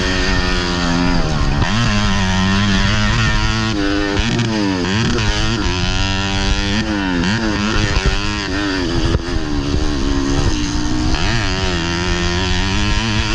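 Modified underbone moped's single-cylinder engine racing from on board, its note climbing and falling back again every second or two as the rider opens and closes the throttle and shifts through the gears on a dirt track.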